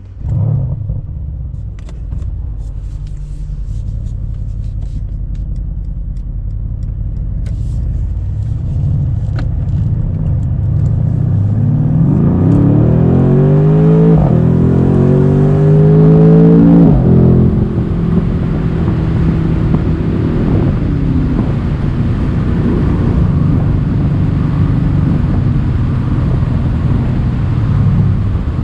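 Mercedes-AMG C63's twin-turbo V8 on the move with the roof down. It runs steadily at first, then accelerates about halfway through, its pitch rising, dipping once at a shift, rising again and falling away as the throttle closes, before settling into steady cruising.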